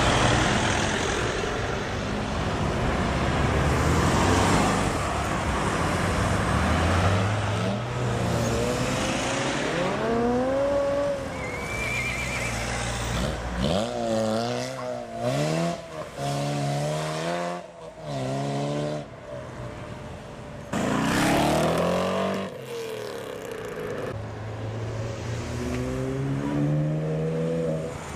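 Performance cars accelerating hard away, engines revving up through a series of quick gear changes, each rising note cut off and starting again, with a loud surge of exhaust noise a little past the middle.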